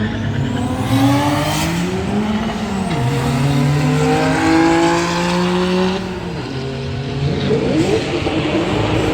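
Performance cars accelerating hard, engines revving up through the gears: the engine note climbs, drops at a shift about three seconds in and again about six seconds in, then climbs once more near the end.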